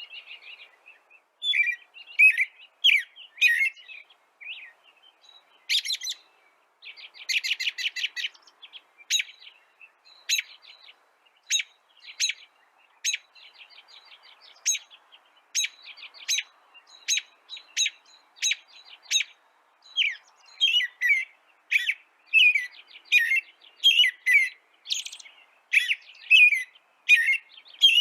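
Birds chirping: a run of short, sharp chirps with a few rapid trills, the chirps coming more steadily and thickly in the second half.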